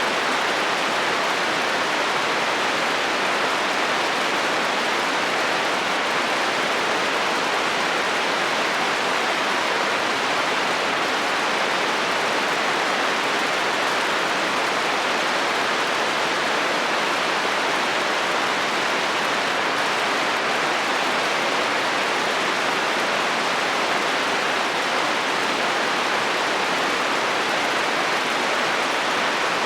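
Heavy rain falling steadily on a metal roof, an even hiss of drops with no change in strength.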